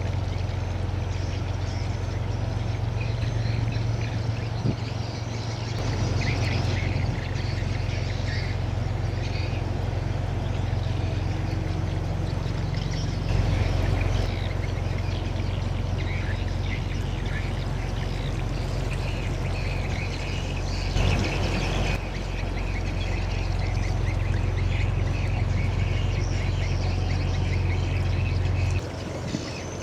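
Birds chirping and calling over a steady low rumble. The rumble shifts abruptly about six seconds in and drops away just before the end.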